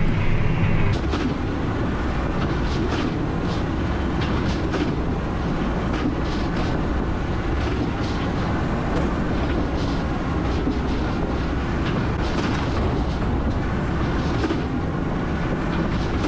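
Tractor and square baler running steadily through straw, with a constant clatter of knocks from the baler at work.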